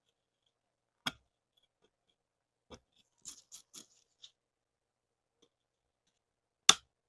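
Metal parts of a Llama 1911-style pistol being handled, giving separate sharp clicks and knocks with silence between: one about a second in, a quick cluster of three or four in the middle, and the loudest knock near the end.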